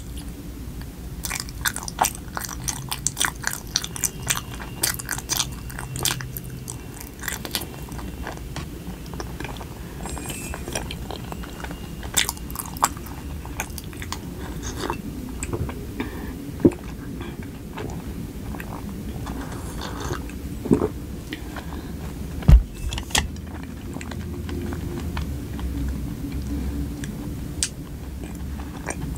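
Close-miked chewing of soft, sticky Korean rice cake, with many wet mouth clicks and smacks that are densest in the first several seconds. A sip from a glass mug of black coffee comes about midway. One sharp knock, the loudest sound, follows a little later.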